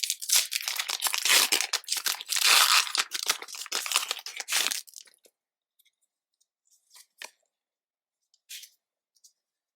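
Plastic wrapping on Pokémon card packaging being torn open and crinkled: a dense run of tearing and crackling for about five seconds, then a few faint light rustles and taps.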